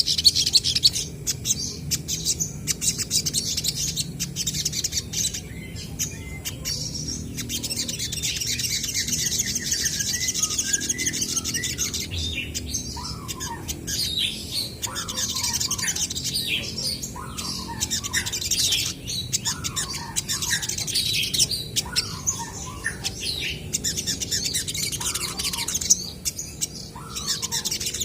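Olive-backed sunbirds calling back and forth: fast, high chirping and trilling throughout, joined about halfway through by a repeated phrase of short, lower notes.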